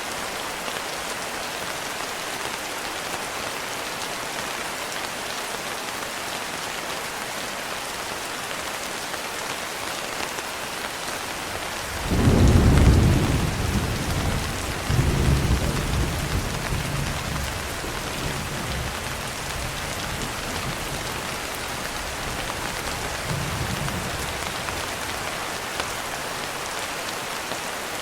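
Steady rain falling, with thunder: a loud peal about twelve seconds in and a second one a few seconds later that rumbles away, then a faint distant rumble near the end.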